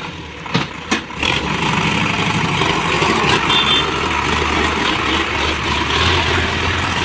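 Heavy diesel engine of the earth-moving machinery running. It goes louder and steady from about a second in, just after two sharp knocks.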